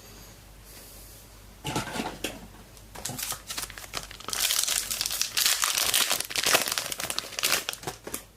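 A Footy Stars trading card pack's wrapper being torn open and crinkled by hand. It starts about a second and a half in and is loudest in the second half.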